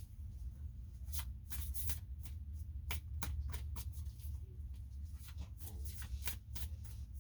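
Tarot cards being shuffled by hand: a run of quick, crisp card flicks at irregular intervals, over a steady low hum.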